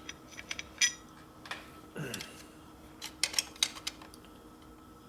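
Sharp metallic clinks and taps as a hand-bent metal oil line is handled and tried in place against the motorcycle. The loudest click is a little under a second in, and a quick run of clinks follows around three to four seconds in.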